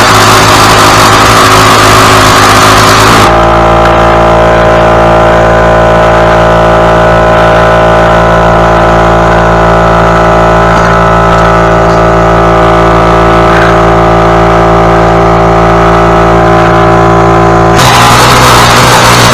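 Small gasoline engine running at a steady speed, loud and close. About three seconds in, a rushing hiss over it drops away suddenly, leaving an even humming drone, and the hiss comes back near the end.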